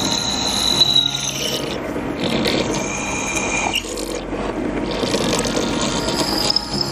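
Ratchet wrench clicking rapidly and steadily as bolts and safety nuts are run down.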